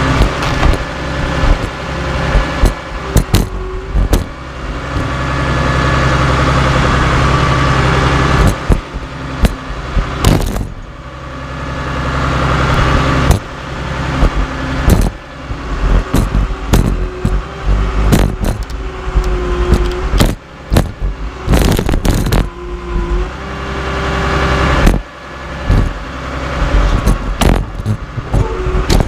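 Cat D3C LGP bulldozer's diesel engine running and swelling under load several times, with many sharp metal clanks and bangs as steel scrap wheels are crushed.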